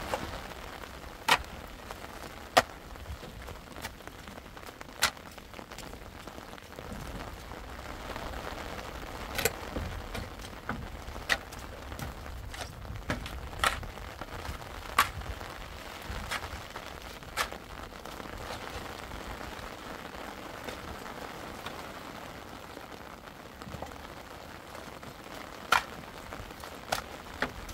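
Rain falling in a steady patter, with single large drips landing as sharp, irregular ticks every second or two.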